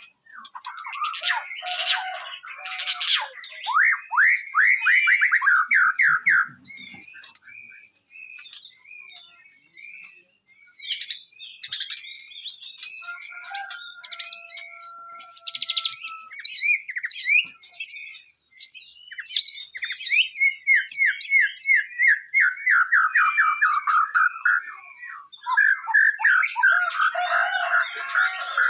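White-rumped shama (murai batu) singing a long, varied song: whistled phrases and chirps, broken twice by fast runs of rapidly repeated notes.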